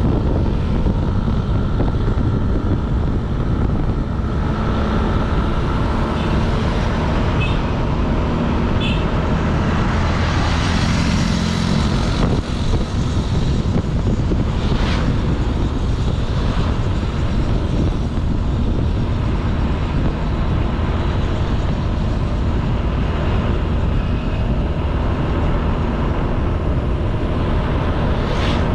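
Honda Beat 110cc scooter's single-cylinder four-stroke engine running as it is ridden along a road, with a steady, loud rumble of engine and road noise.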